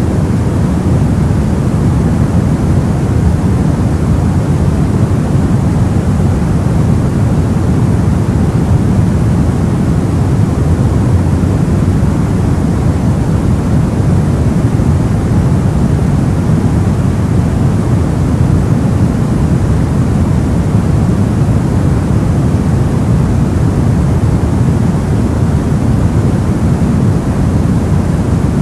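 Soft white noise for sleep: a steady, unchanging hiss with most of its weight in the low end.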